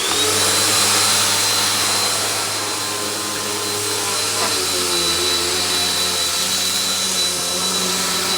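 Bissell PowerForce Bagged upright vacuum cleaner switching on: its motor spins up with a rising whine just as it begins, then runs steadily with a loud, even rush of air and a high motor whine.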